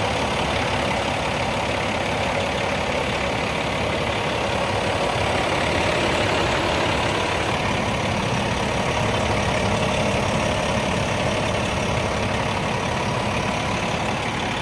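A 2009 Freightliner M2 Vacall vacuum jetter combo truck running with a steady, unchanging mechanical drone.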